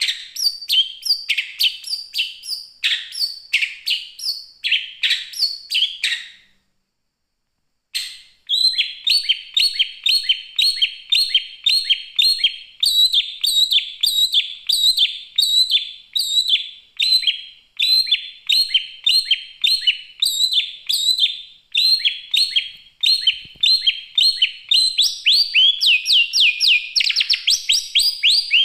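Long-tailed shrike (pentet) singing a mimicked song of rapid, loud, high chirping notes repeated several times a second, in the style of a prinia, with faster canary-like trilling near the end. The song breaks off completely for about a second and a half a little after six seconds in.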